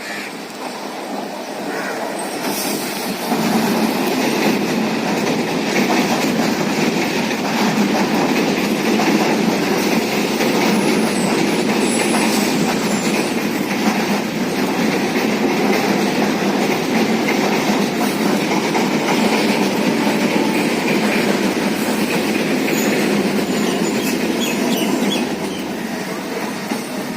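Suburban local train passing on the Indian Railways Sealdah Division: a steady rumble of wheels on rails that builds over the first few seconds, holds loud, and eases off near the end.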